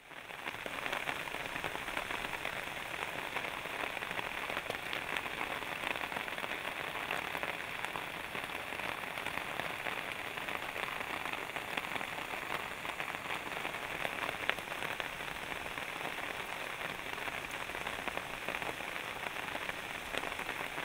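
Steady rain falling: an even hiss with many fine drop ticks, fading in at the start.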